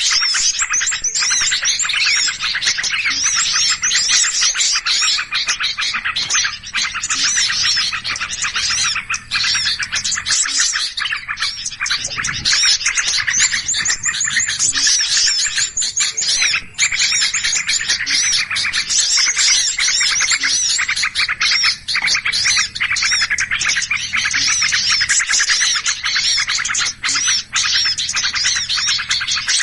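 A dense, unbroken chorus of many small birds chirping and twittering excitedly, calls overlapping without pause. It is an Indonesian lure recording (suara pikat) of agitated, noisy birds, used to draw wild birds in.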